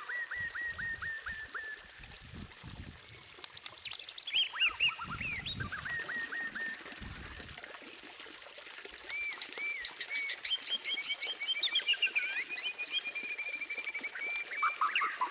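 White-rumped shama (murai batu) singing a varied run of clear whistles and quickly repeated notes, with a fast rattling series of notes in the second half.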